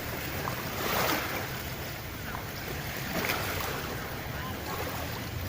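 Small sea waves washing in on the shore, swelling about a second in and again a little after three seconds, over a low wind rumble on the microphone.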